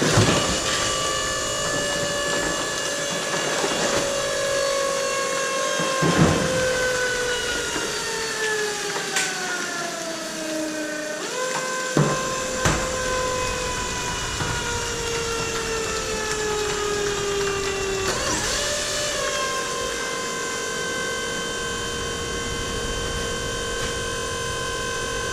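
Mini baler's hydraulic pump motor running under load as the ram compacts PET plastic bottles. Its whine sinks slowly in pitch, jumps back up twice, then holds steady. A few sharp clicks or cracks sound along the way.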